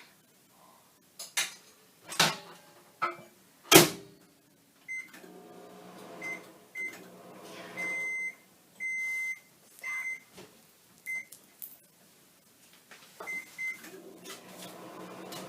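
A few sharp clanks of kitchenware, then a microwave oven's keypad beeps, short ones with two longer tones among them, over the steady hum of the oven running.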